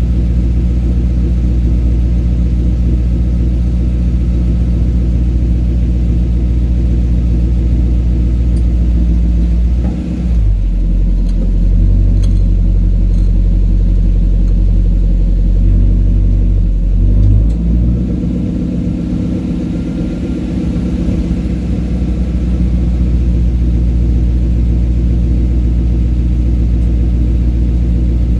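Toyota Crown Majesta's V8 engine running steadily, heard through its exhaust. Its tone changes about ten seconds in, shifts again around eighteen seconds, then settles back to the opening note.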